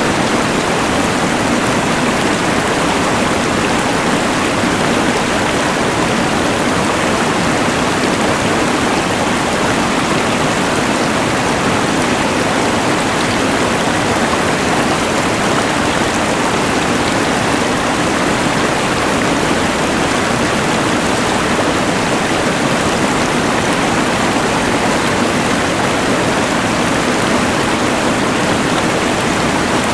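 Rushing mountain river layered with the steady hiss of a LectroFan white noise machine: a loud, constant, unchanging rush with no distinct events.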